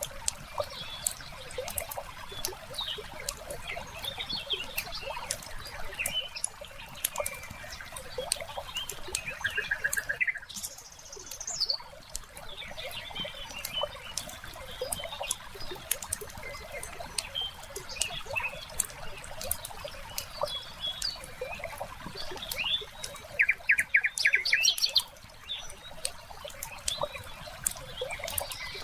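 Layered ambience: a wood fire crackles and snaps, songbirds chirp and call, and water trickles steadily underneath. Two fast bird trills stand out, a shorter one about a third of the way in and a louder one near the end.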